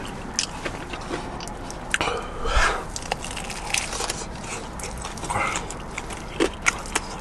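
Close-up biting and chewing of crispy fried chicken: the crunch of the breading comes as many sharp crackles, with wet mouth sounds in between.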